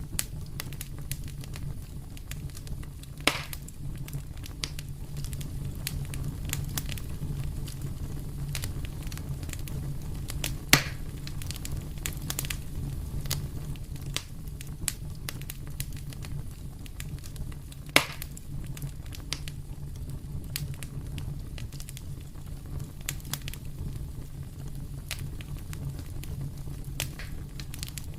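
Wood fire in a fireplace burning with a low steady rumble and frequent small crackles. Three louder pops come about 3, 11 and 18 seconds in.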